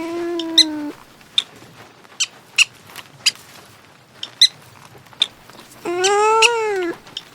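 Cat meowing: two drawn-out meows that rise and then fall in pitch, one at the start and one near the end, with short high squeaks between them.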